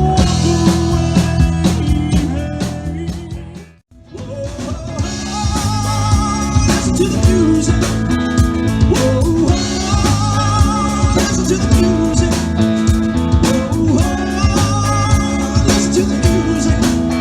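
Blues-rock band music with electric guitar and drums. One song fades out about four seconds in, and the next starts right after it.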